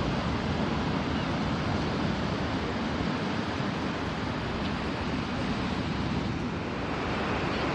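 Steady rushing noise of ocean surf and wind, with the wind buffeting the microphone.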